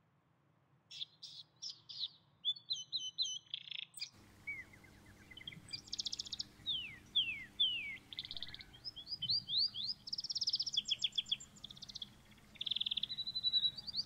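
Birds chirping and singing: a busy mix of short chirps, falling whistled notes and fast trills, over a faint hiss that begins about four seconds in.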